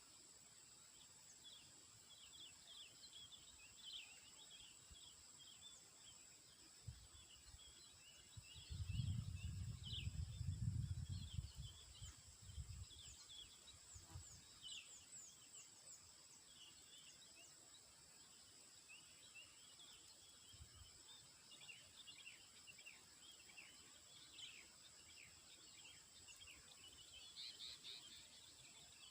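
Faint chirping of many small birds, short high calls scattered throughout, over a steady high-pitched whine. About nine seconds in, a low rumble rises for roughly three seconds and is the loudest sound.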